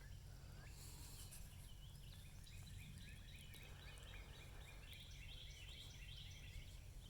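Near silence: faint outdoor ambience with a low steady rumble, and from a couple of seconds in a run of quick, faint, repeated bird chirps in the background.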